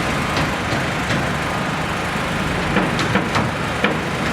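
Heavy diesel construction machinery engine running steadily, with a few sharp knocks about three seconds in.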